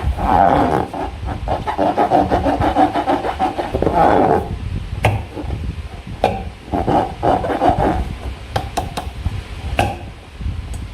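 Rubber balloon being rubbed and squeezed by hand, giving rapid rasping squeaks in uneven bursts with a few sharp clicks in between.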